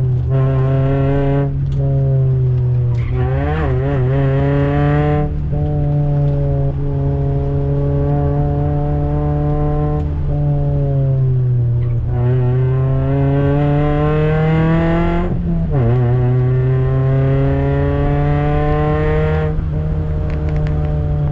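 A Toyota Yaris NCP91 race car's four-cylinder engine is running hard on track. It rises in pitch under acceleration and drops back at each gear change or lift several times, with a few short wavering blips between.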